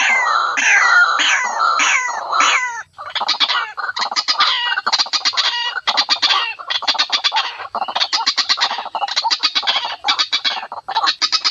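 White-breasted waterhen (ruak-ruak) calling: a run of repeated falling calls for the first few seconds, then, after a brief pause, fast bursts of chattering, clicking notes over and over.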